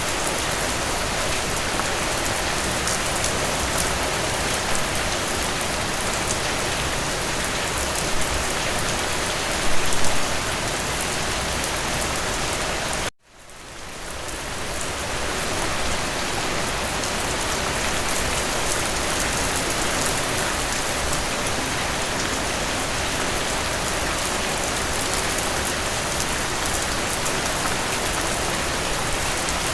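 Steady rain falling on a surface, with a few louder patters. About halfway through, the rain cuts out abruptly and then fades back in over a couple of seconds.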